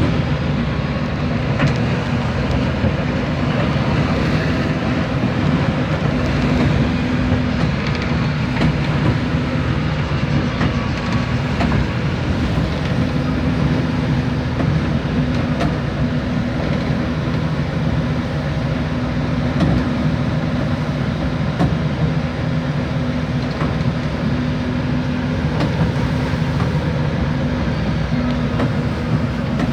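A fishing boat's engine running steadily with a constant low hum. A rushing noise of wind and sea lies over it, heard from on board in a storm.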